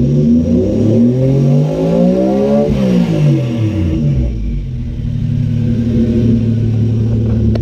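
Nissan 240SX S13's swapped Toyota 1JZ VVTi inline-six being revved once: the engine pitch climbs for nearly three seconds, drops back over about a second, then settles into a steady idle.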